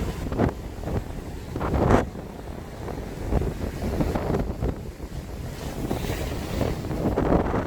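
Strong seaside wind buffeting the microphone in irregular gusts, a low rumble that swells and falls, loudest about two seconds in.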